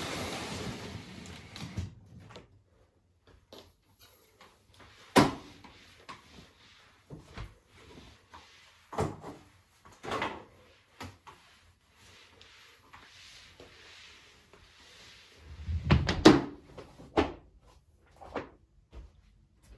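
Household tidying sounds: a rustling, sliding noise for the first couple of seconds, then scattered knocks and bumps of cupboard doors, drawers and objects being handled. A cluster of heavier thuds comes about sixteen seconds in.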